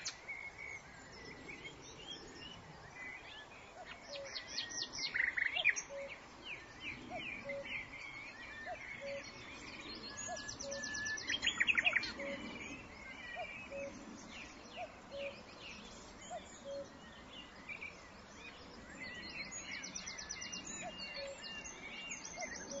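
Birds chirping in the background, with fast high trills four times and a short low note repeated again and again.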